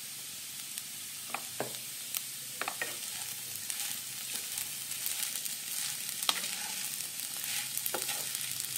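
Soaked sago pearls, potato pieces and chopped coriander sizzling in oil in a nonstick kadhai as a wooden spatula stirs them. Scattered light knocks and scrapes of the spatula against the pan grow busier about halfway through.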